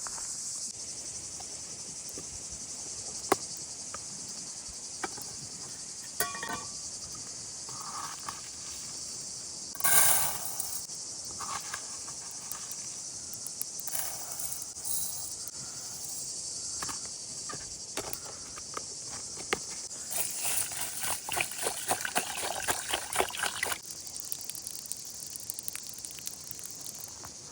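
Steady high-pitched chorus of crickets. Scattered clicks and knocks sound over it, with a louder rustle about ten seconds in and a busy stretch of crackling and rustling near the end.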